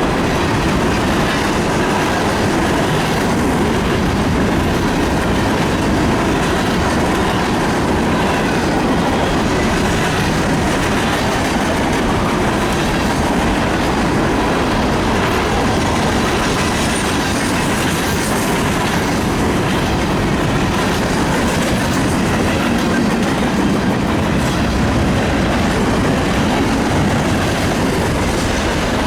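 Union Pacific train rolling past, its cars' wheels clacking over the rail joints in a steady, loud rumble, with a little wheel squeal.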